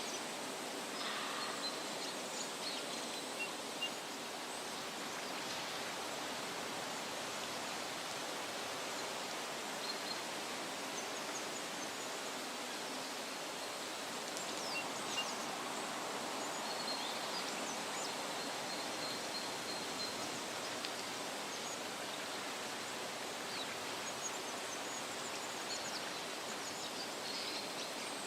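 Steady hiss of wind rustling through tree leaves, with faint high bird chirps and a short thin whistled note now and then.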